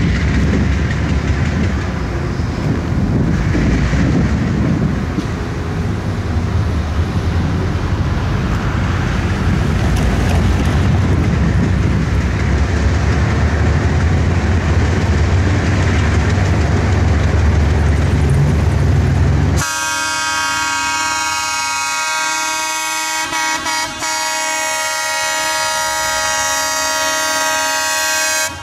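Diesel freight train approaching: the locomotives' engines and the wheels on the rails make a heavy, steady rumble. About two-thirds of the way in, the lead locomotive's air horn starts blowing a long, steady chord of several notes.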